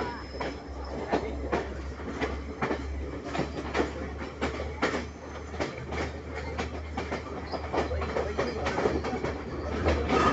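The Udarata Menike passenger train running on the rails: a steady low rumble with frequent, irregular clacks and knocks of wheels and carriages, growing louder toward the end.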